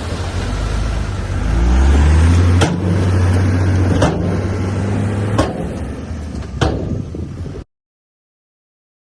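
Heavy diesel earthmoving machine running under load, its engine revving up about two seconds in, with four sharp metallic knocks evenly spaced about a second and a half apart. The sound then cuts off abruptly to silence.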